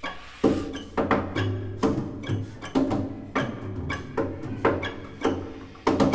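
Contemporary chamber ensemble of violin, flute, clarinet, piano, cello and percussion playing a passage of sharp accented attacks, about two a second at uneven spacing, each with pitched notes ringing on under it.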